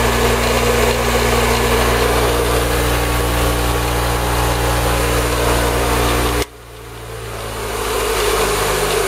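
Baldor 762 bench grinder's electric motor running steadily at 3,600 RPM with a hum, its grinding wheel and wire brush spinning free. About six and a half seconds in, the sound drops off suddenly and comes back up over a second or two.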